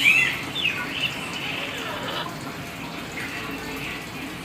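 Hill myna (beo) calling: a loud whistled call right at the start, then a falling whistle and a string of chattering calls, with fainter calls near the end, over a steady hiss.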